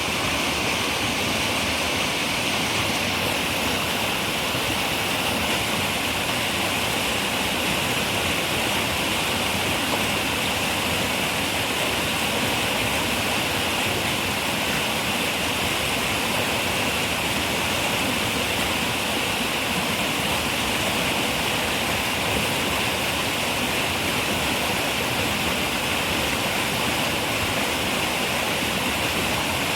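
Running river water, a steady rushing with the most energy in a hiss high up and no distinct splashes.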